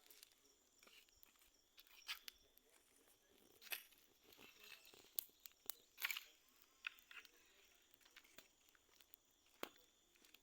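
Near silence broken by a scattering of faint, irregular clicks and crackles, the clearest about two, four, six and nine and a half seconds in.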